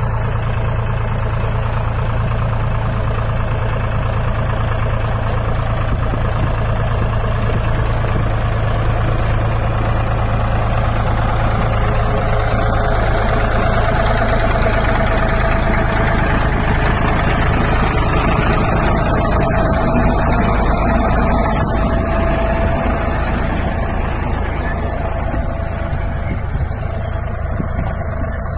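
Tractor engine running steadily, a little louder in the middle stretch and easing off near the end.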